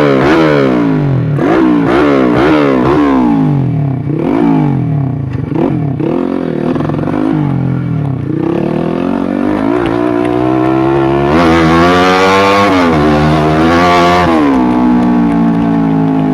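Single-cylinder four-stroke engine of a modified Yamaha Jupiter Z 130cc underbone motorcycle, revved in quick repeated rises and falls for the first few seconds as it picks its way over rocks, then pulling to higher revs and holding them before easing back to a steadier speed near the end.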